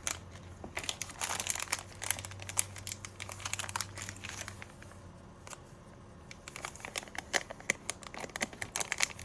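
Packaging crinkling and rustling in quick irregular crackles as hands handle bagged items in a box. It thins out about five seconds in and picks up again near two-thirds of the way through.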